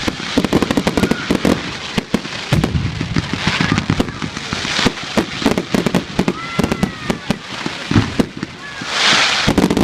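A fireworks display going off: a rapid, irregular run of sharp bangs and crackles, with a louder burst of hissing crackle about nine seconds in.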